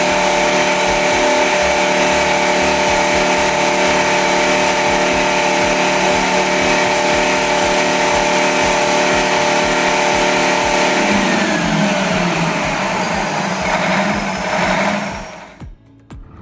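An old engine running at a steady speed, then slowing down from about eleven seconds in, its pitch falling. The sound cuts off suddenly near the end.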